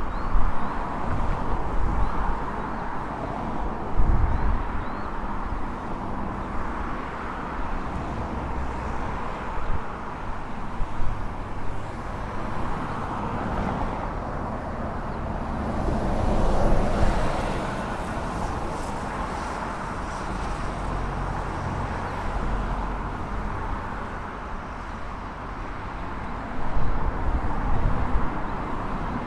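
Airbus A321 jet airliner on landing approach passing overhead: a steady jet engine rush that swells to its loudest about two-thirds of the way through, then eases off. Low rumbling bumps come and go near the start and again near the end.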